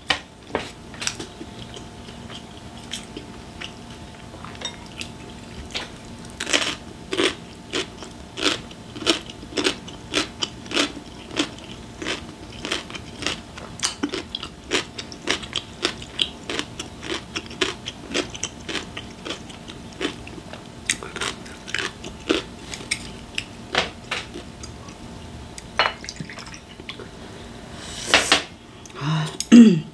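A person chewing a mouthful of galbi mandu (rib-filled dumpling) close to the microphone, giving a long irregular run of short wet smacks and clicks. A few louder ones come near the end.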